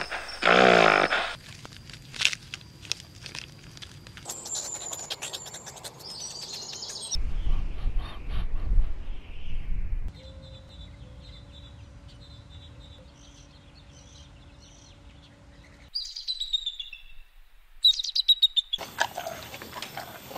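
Several short outdoor animal clips spliced together, with birds chirping through much of it. A loud call fills the first second, a low rumble comes for a few seconds in the middle, and a steady hum runs under faint chirps after it.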